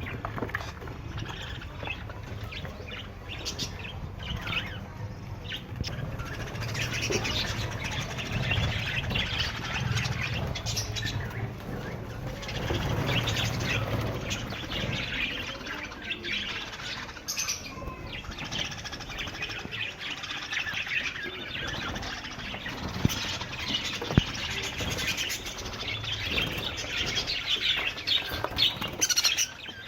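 A colony of budgerigars chattering and chirping continuously, with many overlapping calls and scattered sharp clicks.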